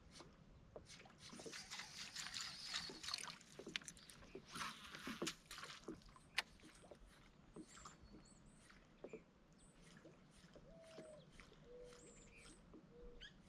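Faint water splashing and dripping with small scattered knocks on a kayak, in two brief hissy stretches early on.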